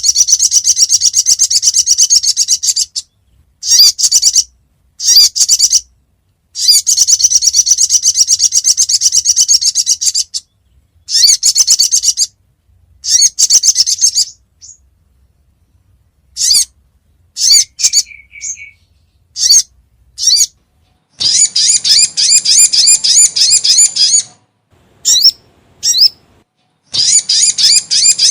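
Little spiderhunter (sogon) calls played as a lure: long runs of rapid, high chipping notes alternating with shorter bursts and brief pauses.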